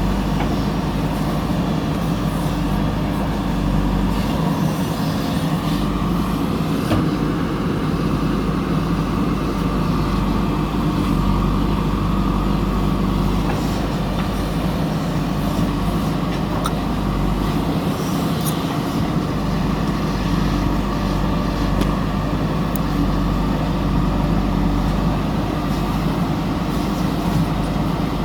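Heavy diesel engine of a backhoe loader running steadily under work, with a few faint knocks over it.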